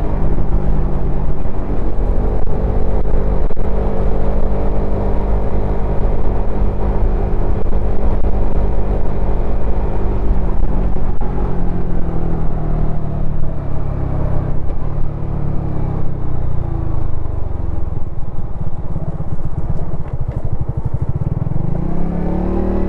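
Suzuki Satria FU FI motorcycle's single-cylinder engine and exhaust while riding: a steady engine note for about ten seconds, then the pitch falls away as the throttle eases, and rises sharply near the end as it accelerates again.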